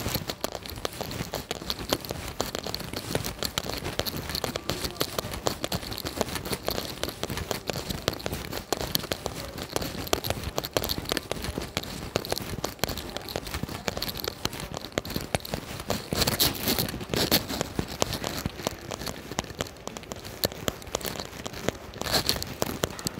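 Rain falling during a walk, a dense crackling patter of drops close to the microphone, louder for a moment about two-thirds of the way through.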